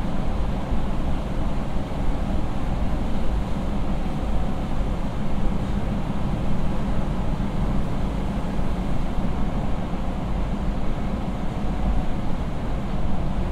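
Interior noise of a 20 series subway train running at speed through a tunnel, heard from inside the car: a steady rumble of wheels on rail with no break or change.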